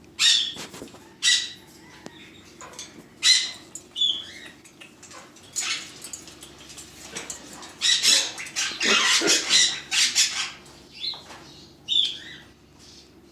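Birds squawking: a string of short, loud calls, thickening into a run of overlapping squawks about eight to ten seconds in, over a faint steady low hum.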